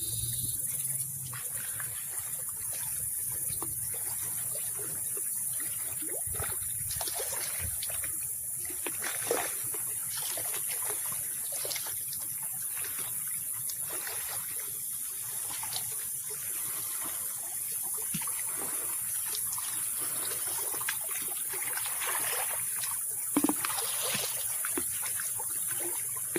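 Small waves lapping at a lake shore in irregular soft splashes, over a steady high hiss.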